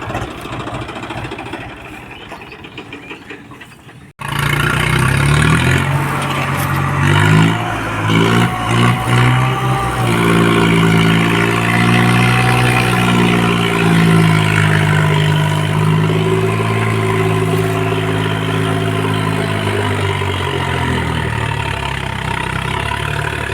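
Swaraj tractor's diesel engine running. It is quieter for the first few seconds, then abruptly much louder, with its pitch rising and falling as it is revved.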